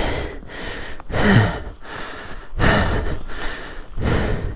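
A dirt bike rider breathing hard and loud from exertion, with heavy gasping breaths about a second and two and a half seconds in and a short grunt on the first, while working the bike through deep snow.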